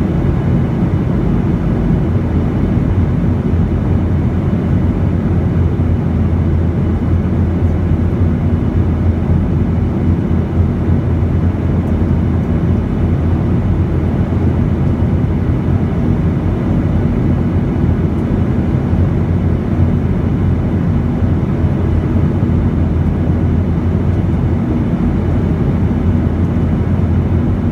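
Boeing 737 in flight, heard from inside the cabin: a steady, low-pitched noise of engines and airflow with a faint constant hum.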